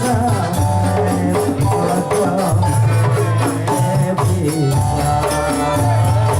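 Dolalak dance accompaniment music: a rapid, even beat of hand percussion with tambourine-like jingles and shakers over a deep drum, under a held melodic line.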